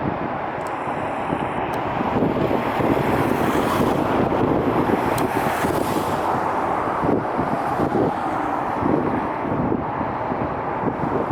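Wind buffeting the microphone over a steady rumbling noise, which swells a little a couple of seconds in.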